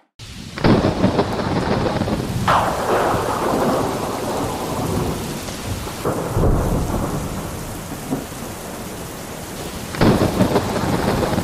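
Thunderstorm: steady rain with several crashes of thunder that die away slowly, the loudest about a second in and near the end.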